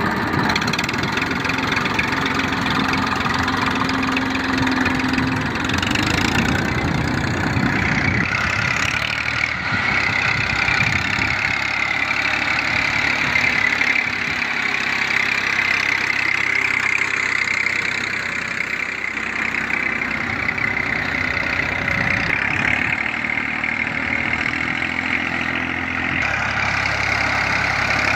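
Tractor engine running steadily, its note shifting a few times.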